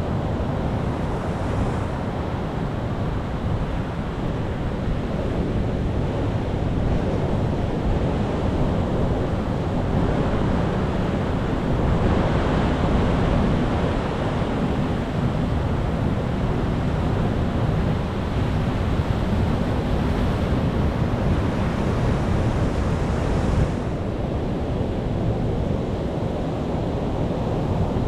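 Sea waves breaking and washing onto the shore in a steady surf, with wind rumbling on the microphone. A larger wave swells up about halfway through, and the surf eases a little near the end.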